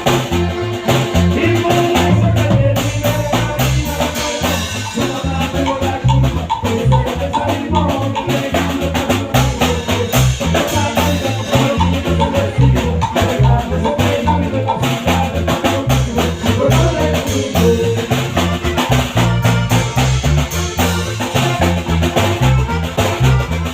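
Norteño band playing, with a steady beat and a repeating bass line.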